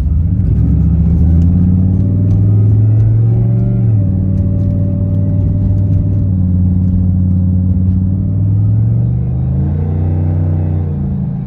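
Cammed 2008 Chevrolet Impala SS's LS4 V8 through a full 3-inch straight-pipe exhaust, pulling hard under acceleration. The engine pitch climbs, falls sharply about four seconds in as it shifts up, holds steady, then climbs again and falls at another shift near the end.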